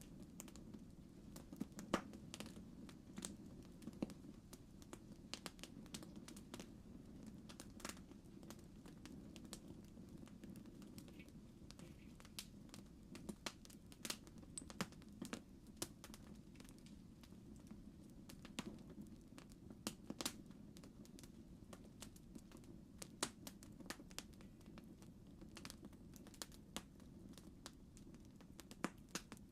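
Campfire crackling: a faint low rumble of burning with irregular sharp pops and snaps scattered throughout.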